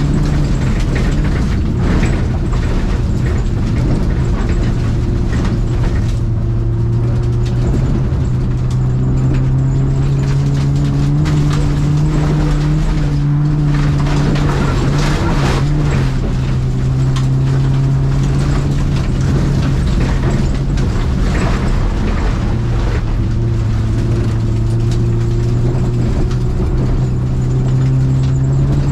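Renault Clio 1.4's four-cylinder engine running hard, heard from inside the cabin, its note rising and falling several times with throttle and gear changes, with scattered clicks and rattles over the top.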